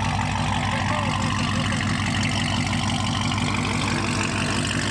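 A car engine idling steadily and evenly, with no revving.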